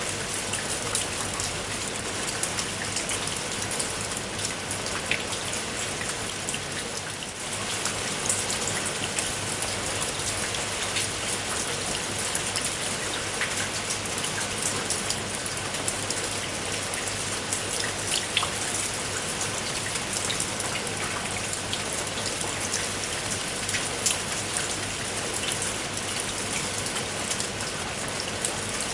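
Steady rain: a dense even hiss with many individual drops ticking sharply through it.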